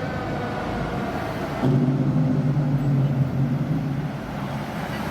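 Fire engine's mechanical Q siren winding down, its falling wail fading over the first second and a half. Then a louder, steady, low-pitched engine drone comes in, easing off near the end.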